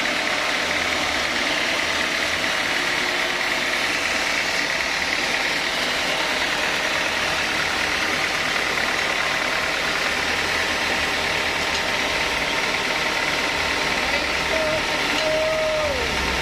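Sawmill machinery running steadily, a constant mechanical drone with a whine on top. A brief wavering tone sounds near the end.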